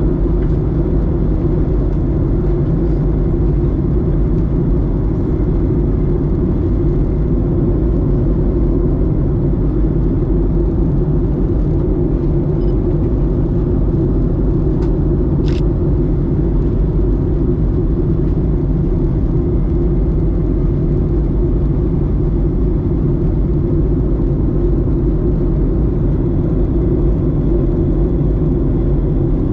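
Steady engine and airflow drone heard inside the cabin of a Boeing 737-900ER in flight, from its CFM56-7B engines, with one short click about halfway through.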